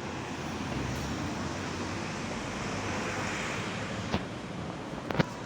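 Steady wash of sea waves on the shore with wind on the microphone, and two sharp knocks near the end.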